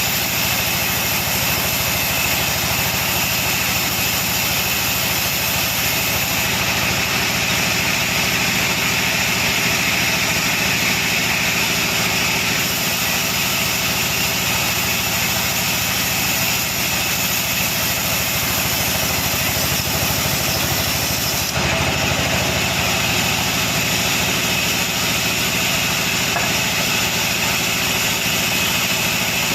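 Sawmill saw and its drive motor running steadily: a constant high whine over dense machine noise, shifting slightly about two-thirds of the way through.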